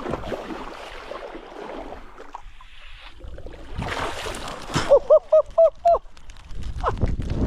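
Shallow seawater sloshing and splashing around someone wading while spear-fishing, with a bigger splash about four seconds in. Just after that, a rapid run of five loud, short calls.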